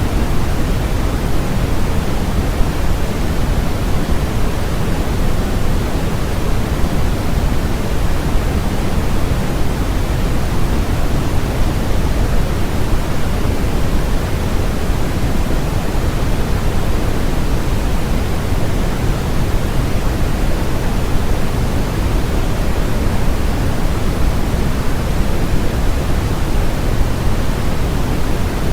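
Steady, unchanging synthetic noise for sleep and focus, with a flat hiss and more weight in the low end than the high.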